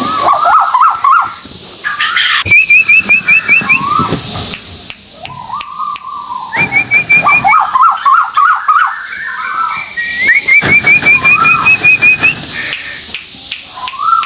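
A tuwu paruh putih songbird singing loud whistled phrases: slurred, gliding whistles mixed with quick runs of short, higher rising notes, in several bouts with brief pauses between them. It is played as a lure call to draw other birds of its kind.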